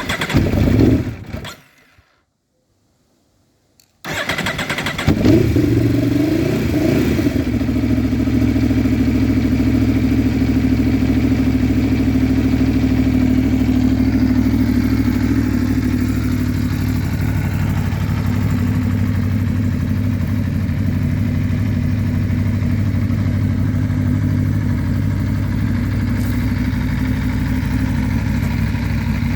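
Aprilia Tuono V4 1100 Factory's V4 engine, with a full Akrapovic exhaust, starting up about four seconds in. It flares briefly, then settles into a steady idle.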